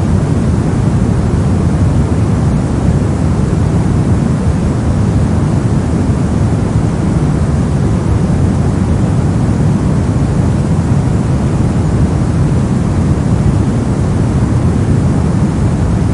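Steady soft noise, a continuous hiss-like sound heavy in the low end and thinner in the highs, that stays unchanged throughout.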